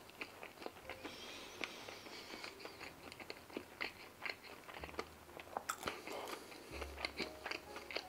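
Close-miked chewing of a full mouthful of food with the mouth closed: a dense run of small sharp mouth clicks, a few louder ones a little past the middle.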